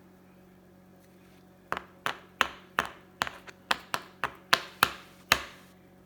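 A quick run of about a dozen sharp taps or knocks on a hard surface, roughly three a second, over a steady low room hum.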